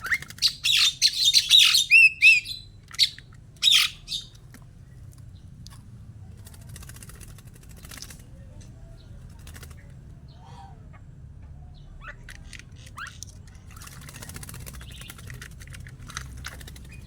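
Pet starling calling loudly in quick chirps, squawks and gliding whistles for about the first four seconds, then fainter scattered calls and rustling, thickest near the end.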